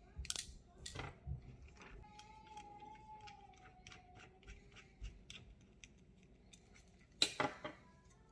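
Small sharp clicks and snips from hands and tools working on parts of a desktop PC case, with a few louder clicks about a quarter second in, at about a second, and a quick cluster near the end. A faint steady whine runs underneath.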